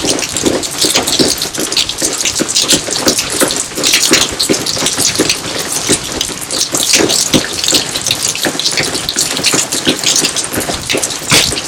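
Steady rain falling in a garden: a dense, uneven patter of drops splashing onto surfaces.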